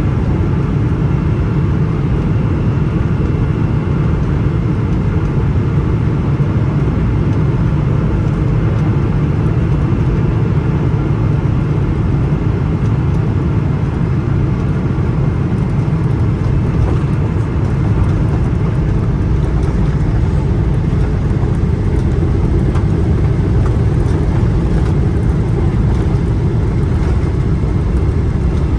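Steady cabin rumble inside a Boeing 777-300ER, from its GE90 engines and the airframe in motion, heard from a window seat.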